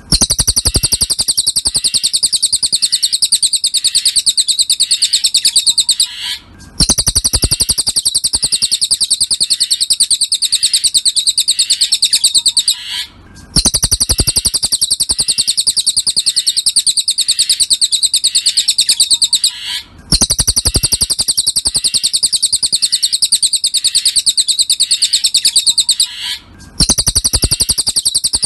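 Cililin song, a rapid, high chattering trill of many notes a second, in phrases about six seconds long with a brief pause between them, repeated four times as a looped masteran for tutoring songbirds.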